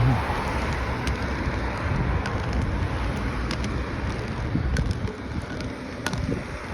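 Wind buffeting the microphone: a steady, rumbling noise with a few faint clicks.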